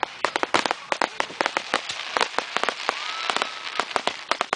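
Fireworks grand finale: a dense, continuous barrage of bangs and crackling reports, several a second, thickening into a crackling rush about midway.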